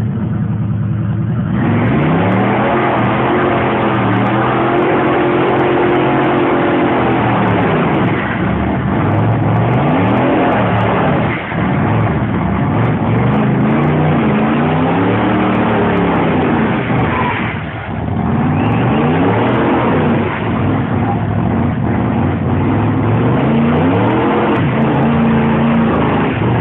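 Twin-turbo Plymouth Duster doing a burnout: the engine revs up and falls back over and over. A loud, dense rushing noise of spinning tyres comes in about a second and a half in and keeps going, dipping briefly twice.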